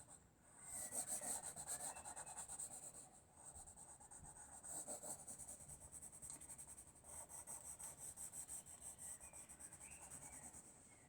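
Soft pencil shading on paper: faint, quick, repeated scratchy strokes of graphite.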